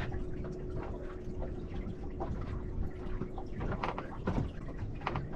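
Water lapping and trickling against a boat's hull, with small scattered knocks. A faint steady hum stops about three and a half seconds in.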